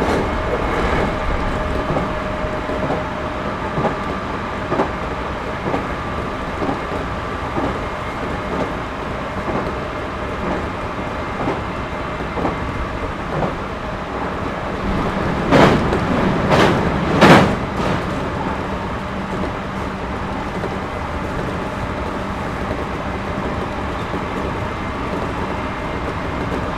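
Interior running sound of a Series 211-5000 electric multiple unit: a steady rumble of wheels on rail with a few faint steady tones. About fifteen seconds in come three loud clacks in quick succession as the wheels cross the track.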